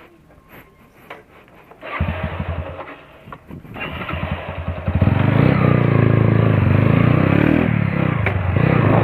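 Motorcycle engine starting about two seconds in, running in a fast low pulse, then revved up and held at a loud, steady run through a loud exhaust.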